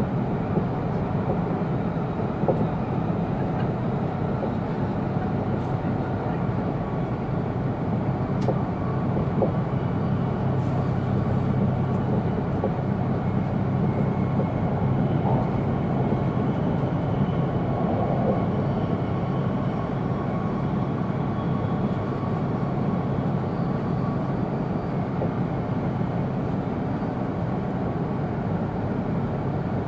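Steady interior running noise of an E2 series Shinkansen passenger car: a low rumble of wheels on rail, with a few faint clicks.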